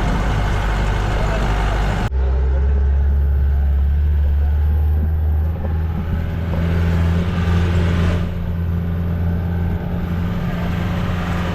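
Jeep engine running with a steady low drone. The sound changes abruptly about two seconds in, then the drone carries on.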